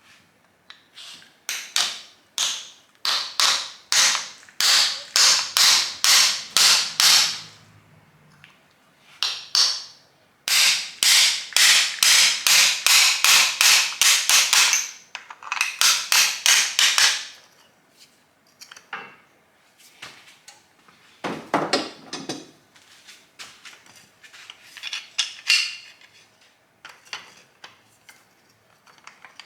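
Hammer blows on a stuck old VW engine, whose jugs and pistons are hard to get off, struck in fast runs of about two to three blows a second. After about 18 s the blows become sparser and softer.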